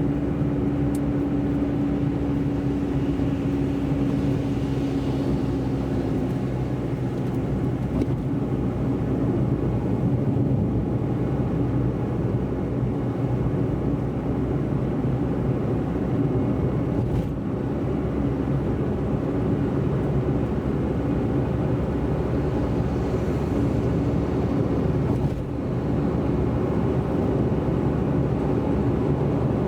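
Car driving with a steady low rumble of engine and road noise. A steady hum fades about six seconds in.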